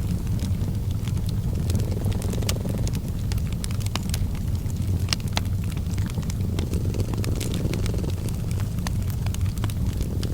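Cat purring as a steady low rumble that swells faintly every couple of seconds with its breathing, mixed with fireplace crackling: frequent sharp pops and snaps at irregular intervals.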